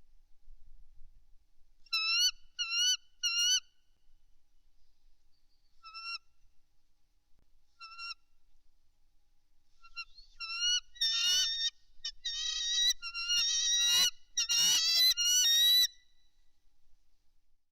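Bald eagles calling with short, high piping notes: three in quick succession, then two single notes, then a longer run of rapid chattering calls that grows louder in the second half.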